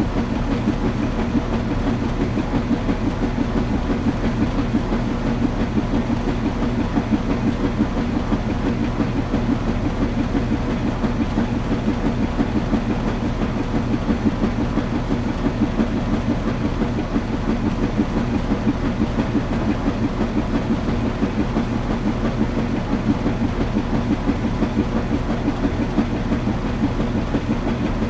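Washing machine running: a steady mechanical hum and rumble with a quick, even pulsing.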